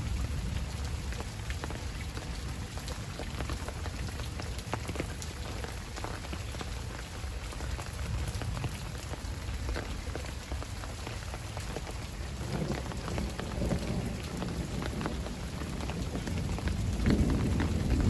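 Heavy rain falling steadily, with the sharp ticks of single drops striking close by. Low rumbles of distant thunder swell up twice in the second half.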